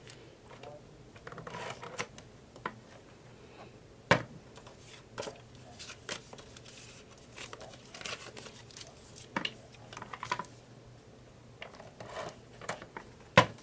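Paper tags and card stock being handled and set down: scattered rustling and light taps, with a sharp tap about four seconds in and a louder one near the end.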